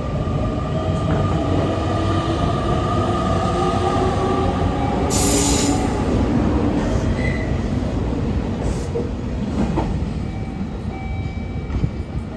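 Train moving along the platform track, its rumble joined by drawn-out squealing tones from the wheels. A short hiss comes about halfway through.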